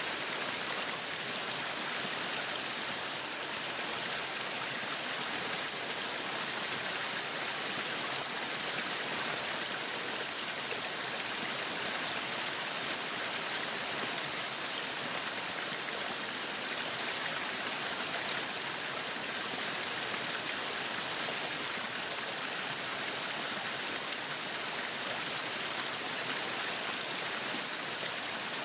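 Meat sizzling on a yakiniku grill: a steady, even sizzle with no breaks.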